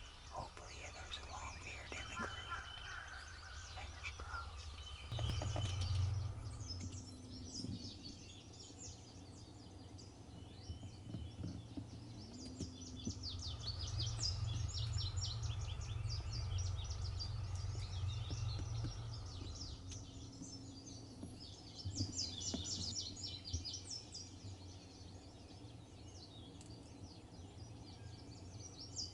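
Many small songbirds chirping and singing, with quick high chirps throughout, over a low steady rumble that comes in about five seconds in.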